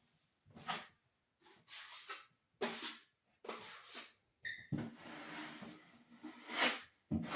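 Irregular scrubbing strokes of a cloth or sponge rubbing on a hard surface, with a brief high squeak about four and a half seconds in.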